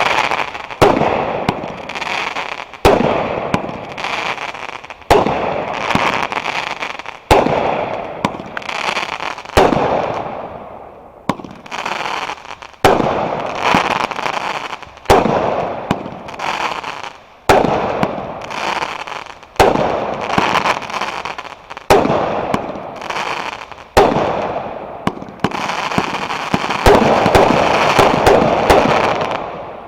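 Fireworks going off: a sharp bang about every two seconds, each followed by crackling that fades away. Near the end the crackle turns denser and runs on without a break.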